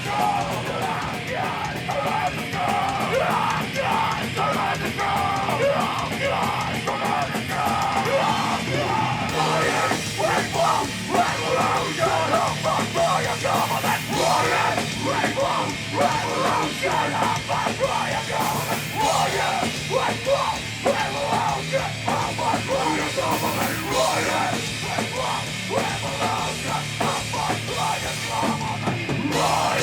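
Live punk band playing loud and fast, with distorted guitars, bass and rapid drumming, and shouted vocals. The song stops suddenly at the very end.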